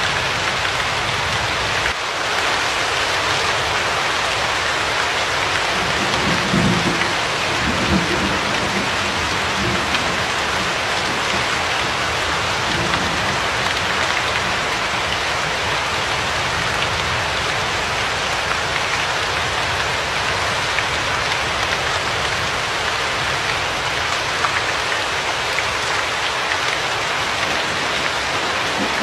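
Steady, dense rainfall, with a low rumble of thunder about six to ten seconds in.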